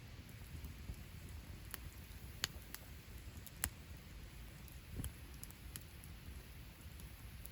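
Wood campfire crackling: scattered sharp pops and snaps, two louder ones in the middle, over a low steady rumble.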